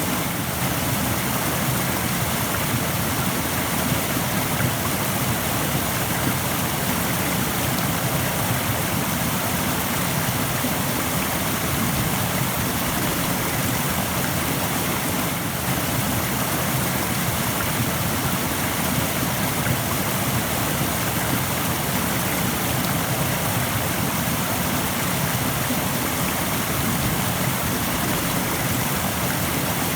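Rushing stream: fast water pouring over rocks in a steady, even rush.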